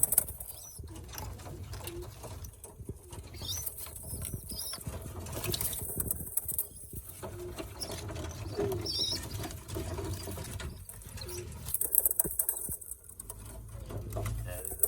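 Birmingham roller pigeons in a loft: scattered short high peeps from young birds and a few low coos, with rustling and patter of feet and wings.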